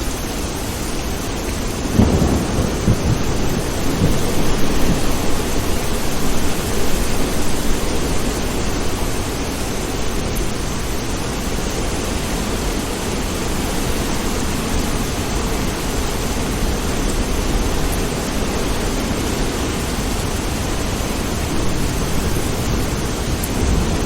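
Steady heavy rain, with a rumble of thunder that rolls in about two seconds in and fades away over the next several seconds.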